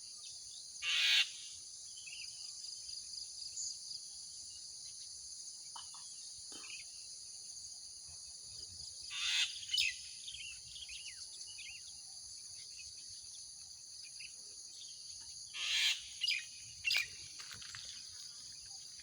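Mynas calling loudly in short bursts: one about a second in, two around nine to ten seconds, and three near the end, with smaller bird chirps between. A steady high drone of insects runs underneath.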